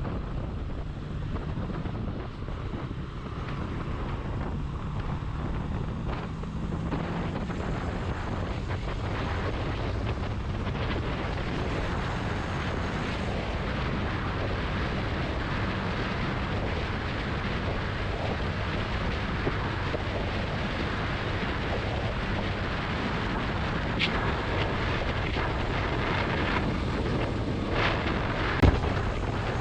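Wind rushing over the microphone with a motorcycle engine running underneath while riding. A single sharp knock near the end.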